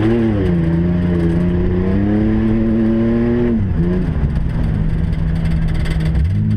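Racing truck engines revving hard, the pitch climbing under acceleration, dropping sharply as the throttle is lifted about midway, then holding low and steady before picking up again near the end.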